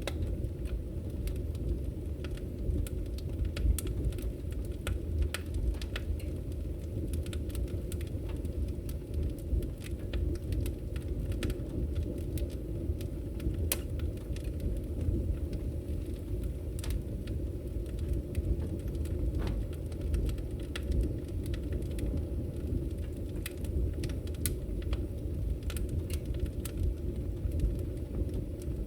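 Firewood burning: a steady low rumble of the fire with many scattered sharp crackles and pops.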